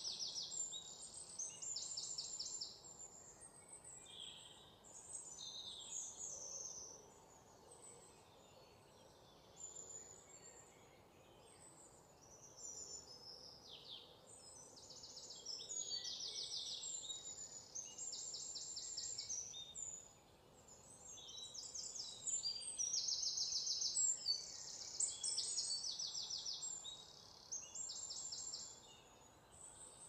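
Songbirds singing and chirping, with repeated fast high trills and short falling notes, over faint steady background noise.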